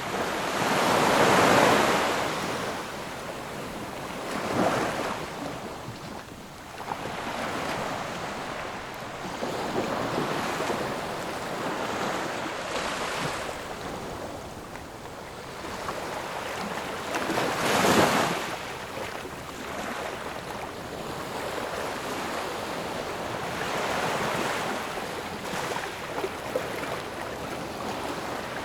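Ocean waves breaking and washing up on a shore in a continuous surf, with swells rising and falling; the biggest breakers come about a second or two in and again just past halfway.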